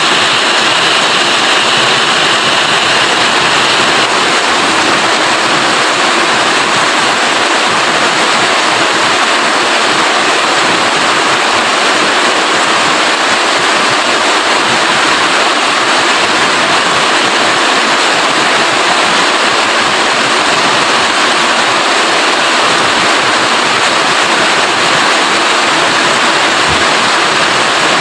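Heavy rain falling steadily, a dense even hiss without individual drops standing out.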